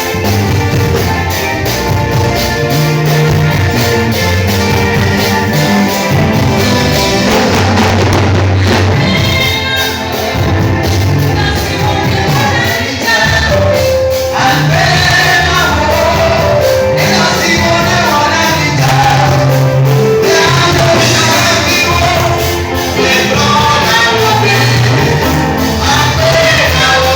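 Loud gospel music: singing, with choir-like voices, over a full band with a strong bass.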